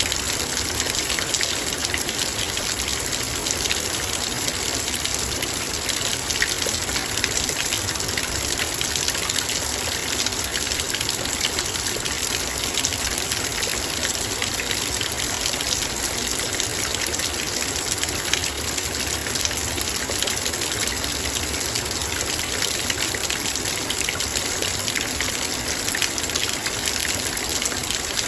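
Heavy rain falling, with dense patter of drops striking a metal bowl. A steady, even rush with fine ticks throughout.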